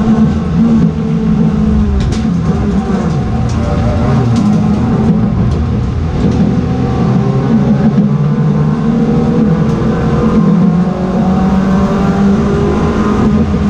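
Race car engines running and revving, several engine notes overlapping and shifting in pitch, with a few sharp clicks about two to four and a half seconds in.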